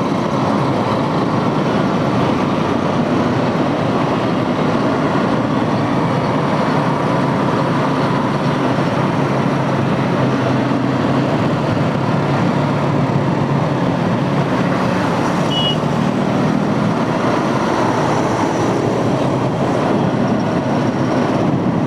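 Motorcycle riding through city traffic: its engine running under a steady rush of wind and road noise, with other vehicles around. A short high beep sounds about two-thirds of the way through.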